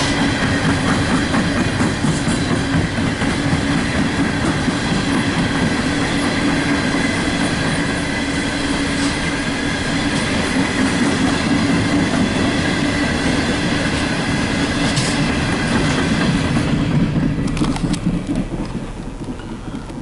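Empty coal hopper cars of a long freight train rolling past, with a steady rumble, wheels clacking over rail joints and a thin steady high squeal. The sound thins out over the last few seconds.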